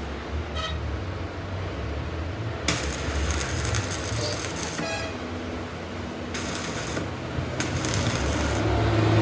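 Metalworking shop sounds: a steady low machine hum with intermittent stretches of hissing, scraping noise and a couple of short metallic rings.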